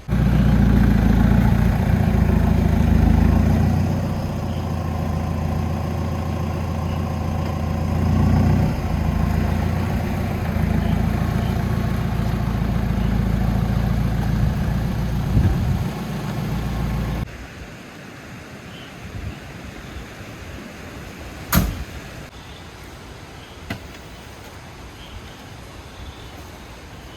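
Jeep engine running steadily for about seventeen seconds, then cutting off suddenly, leaving quieter background noise with a single sharp click a few seconds later.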